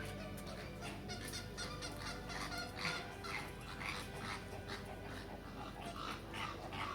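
Captive birds calling in a bird garden: many short, overlapping calls repeated several times a second, likely geese or other fowl.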